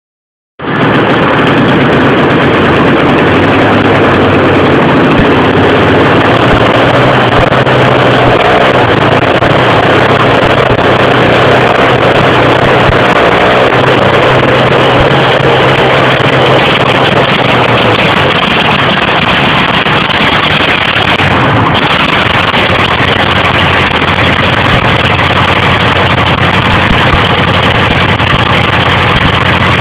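DT-75 crawler tractor engine running loudly and steadily, starting abruptly about half a second in; its low hum changes a little way past the middle.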